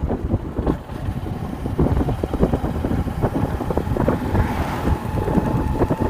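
Hero Hunk single-cylinder motorcycle engine running under way, with wind buffeting the microphone in rough gusts. A steady higher tone joins about two-thirds of the way through.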